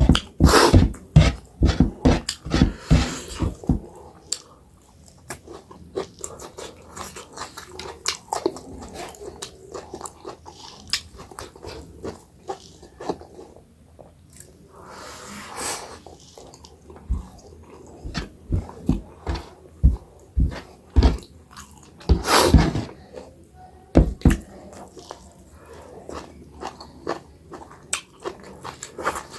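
Mouth sounds of eating millet dhido with chicken gravy curry: wet chewing and lip-smacking in quick runs of clicks, with a couple of longer breathy sounds about halfway and three-quarters through.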